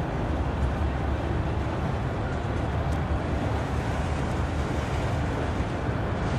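Freight train of autorack cars rolling past at steady speed: the continuous low rumble of steel wheels on the rails.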